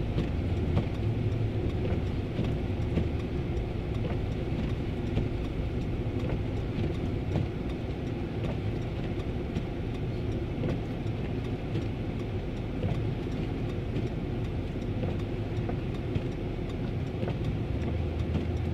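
Ford Crown Victoria's V8 engine running steadily under throttle as the rear-wheel-drive car tries to move through deep snow, its rear wheels spinning.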